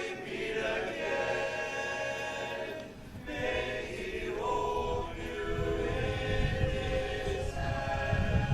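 Choir singing in harmony, holding sustained chords, with a short break about three seconds in. A low rumble joins under the voices about halfway through.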